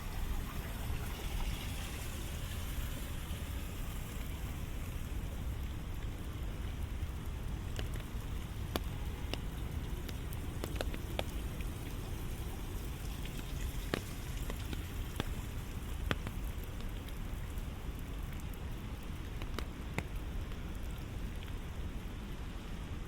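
Steady rain falling, with scattered sharp drops ticking now and then.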